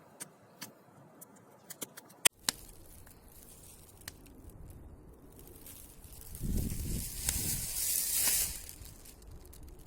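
Bonfire of damp boards and cardboard crackling with scattered small pops, and one sharp snap about two seconds in. A rushing hiss then builds and swells in the second half as the fire burns up.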